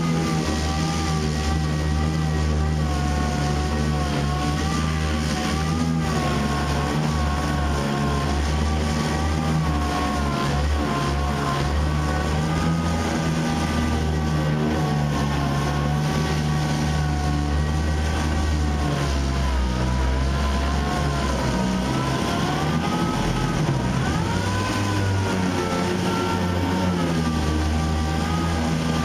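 Air-powered dual-action orbital sander running on a truck's body panel, its whine wavering in pitch as it is pressed and moved, over a steady low hum.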